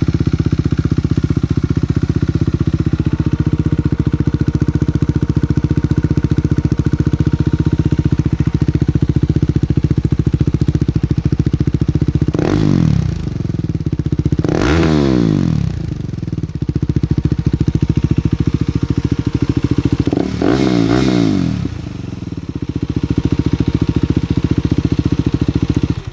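2017 KTM 390 Duke's single-cylinder engine through a Delkevic carbon slip-on exhaust, idling steadily and blipped a few times, the pitch rising and falling back each time, before it is switched off at the end.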